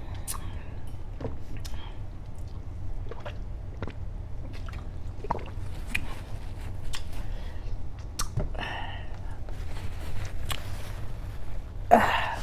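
Close-miked chewing: scattered wet mouth clicks and smacks as food is bitten and chewed. A louder burst comes near the end.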